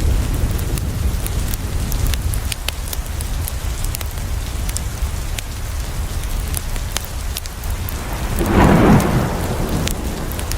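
Steady rain, with a low rumble under it and many sharp ticks and crackles from drops on the window glass and a wood fire crackling. Near the end comes a loud rushing burst lasting about a second, the loudest sound here.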